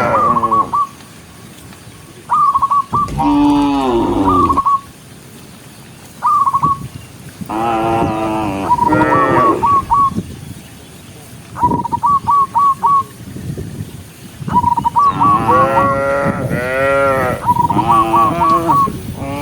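Cows mooing again and again, several long calls that rise and fall in pitch, some in quick succession near the end. Between the moos come runs of short, high chirping notes in quick groups of three to five.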